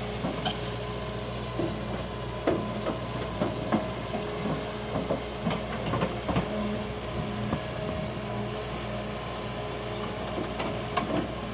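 Large excavator's diesel engine running steadily, with irregular knocks and clanks from the machine at work throughout.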